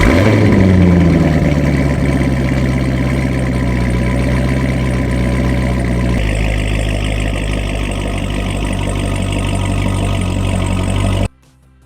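Chevrolet Corvette ZR1's V8 engine running just after starting, its revs falling to a steady idle within the first second. The sound changes about six seconds in and cuts off suddenly near the end.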